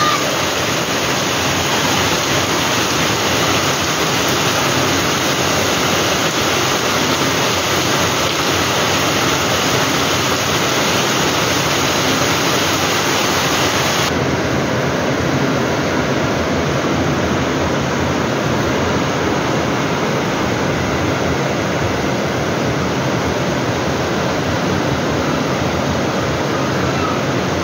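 Heavy rain pouring steadily onto corrugated metal roofs and a wet concrete courtyard, with water streaming off the eaves; a dense, even hiss that turns a little duller about halfway through.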